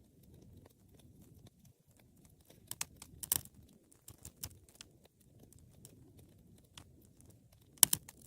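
Wood fire crackling in a fireplace: a low, steady rustle of flames under scattered small crackles, with a cluster of sharp pops about three seconds in and the loudest pop near the end.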